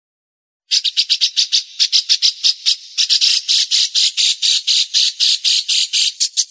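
Songbird giving a fast, even run of harsh, scratchy notes, about seven a second, starting just under a second in.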